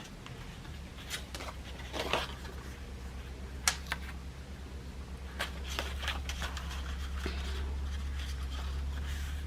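Paper being handled: scattered rustles and light taps, with one sharp click about three and a half seconds in, over a low steady hum.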